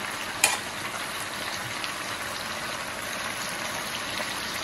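Chicken pieces sizzling and bubbling in soy and oyster sauce in a wok on a gas stove, a steady hiss. One sharp tap about half a second in.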